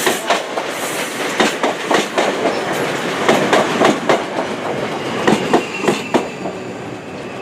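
Class 458 electric multiple unit passing, its wheels clattering over rail joints and points in a quick, uneven run of clicks. A faint high whine joins from about three seconds in.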